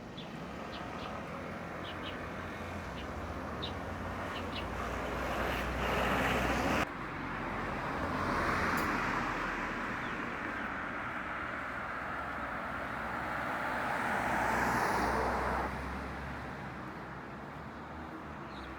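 Road traffic passing close by, vehicles swelling and fading over a steady low hum. The first pass cuts off abruptly about seven seconds in, and a second, longer pass falls in pitch as it goes by.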